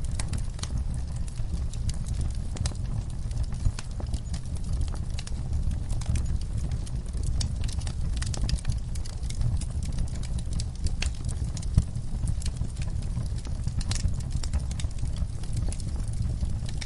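Wood fire crackling in a fireplace: irregular sharp pops and snaps over a steady low rumble of burning, with one louder pop about two-thirds of the way through.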